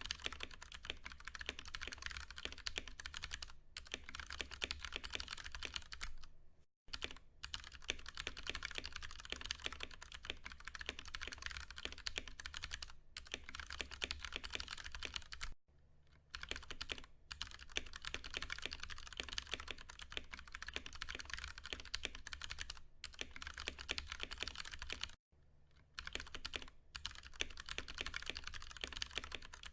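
Continuous fast typing on a Ducky One 2 Mini mechanical keyboard with Cherry MX Brown switches: a dense run of key clacks, broken by three short pauses of about a second each.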